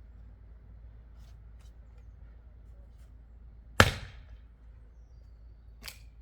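An axe striking wood in one sharp, loud blow about halfway through, with a short ringing tail, then a fainter knock near the end.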